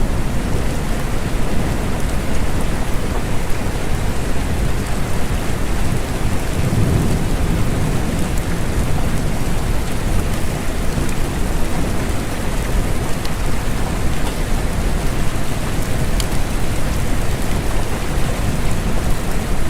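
Steady rain with a deep low rumble underneath that swells about seven seconds in. A few single drops tick now and then.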